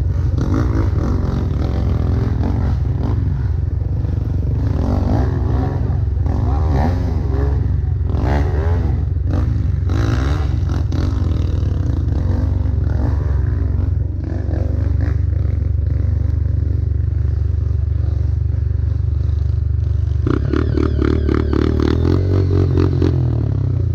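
Dirt bike engine riding along a trail, revving up and down repeatedly with a steady low rumble and scattered knocks and rattles from the rough ground.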